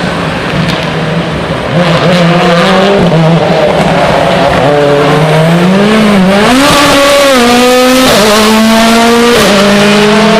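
Rally car engine revving hard, its note climbing in steps and held high for several seconds before dropping back near the end.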